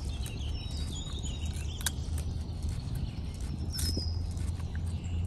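Faint bird chirps over a low steady hum, with a sharp click about two seconds in and another near four seconds.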